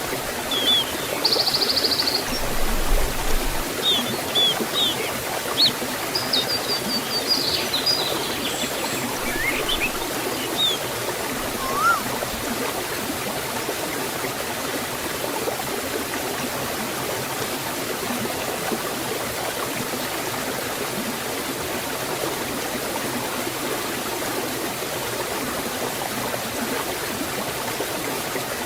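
Steady rush of water flowing in a forest stream and waterfall, with small birds chirping now and then during roughly the first twelve seconds.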